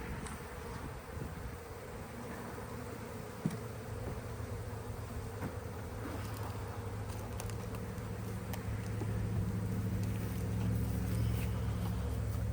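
Honey bees buzzing around an opened hive, a steady hum that grows louder from about four seconds in, with a few light clicks.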